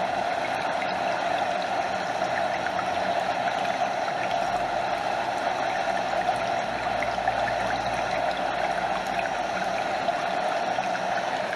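Stream water flowing steadily, with water lapping close by and a small waterfall cascading further back.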